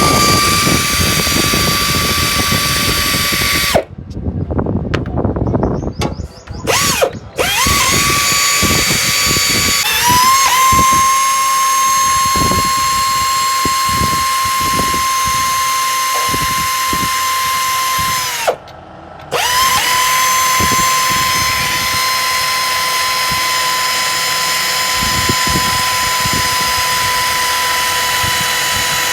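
Electric power drill running in several long bursts, each spinning up to a steady high whine and winding down when the trigger is released, with irregular knocks underneath.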